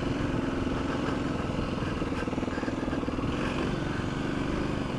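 Kawasaki KLX250 dual-sport motorcycle's single-cylinder four-stroke engine running steadily at an even pace, with no revving.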